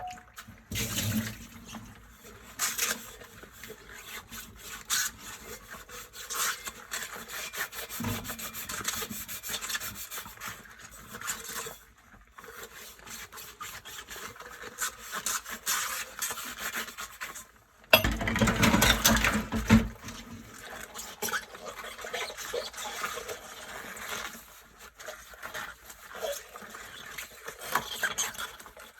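Dishes being washed by hand: rubber gloves rubbing and scrubbing over wet dishes, with small knocks and clinks. A louder, fuller burst of scrubbing and water comes about two-thirds of the way through.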